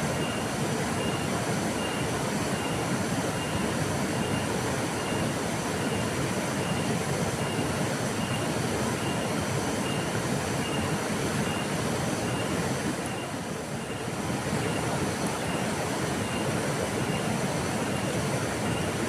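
Flowing river water: a steady, even rush, dipping briefly about two-thirds of the way through. A faint high-pitched pip repeats a little more than once a second over it.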